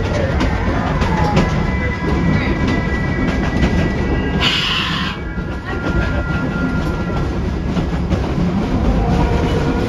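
Tweetsie Railroad narrow-gauge train rolling along with a steady rumble and wheel clatter on the rails, with thin high wheel squeal. A short hiss comes about halfway through.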